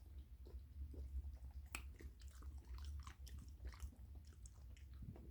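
Faint wet clicks and smacks of a pit bull puppy chewing a juicy piece of orange, over a low steady hum.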